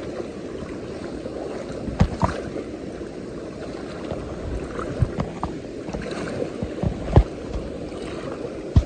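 Shallow mountain stream running over rocks in a steady low rush, with a few sharp knocks scattered through it, the loudest about seven seconds in.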